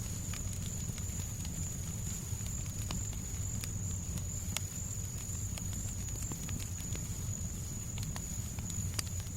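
Fireplace crackling: scattered sharp pops over a low, steady rumble, with a thin, steady high tone throughout.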